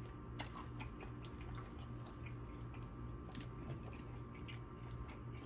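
A person chewing food close to the microphone, with scattered wet mouth clicks and smacks, over a steady low electrical hum.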